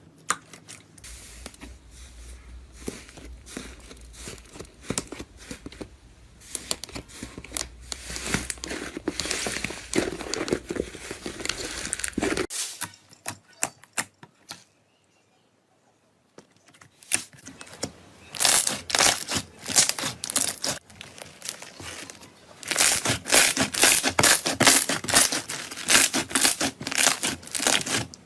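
Close-up crinkling and crackling of a crunchy material being squeezed and crushed by hand, in two stretches split by a few seconds of near silence around the middle. The first stretch has a low hum under it; the second is louder, with quick, dense crackling strokes.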